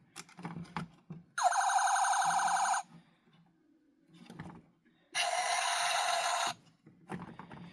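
A Tonka Rescue Force toy fire truck's electronic alarm sound effect played twice through a small speaker wired into its circuit, each burst buzzy and about a second and a half long.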